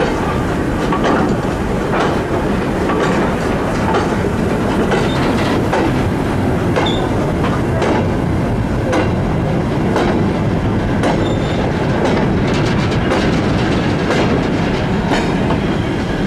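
Train running steadily along the track, the wheels clicking irregularly over rail joints.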